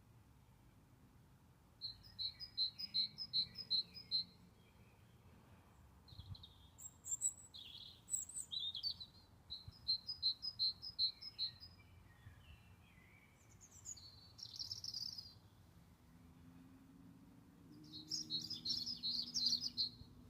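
Songbirds singing in separate phrases: twice a quick run of evenly repeated high notes, about five a second, between shorter chirping phrases, with a busier warbling phrase near the end.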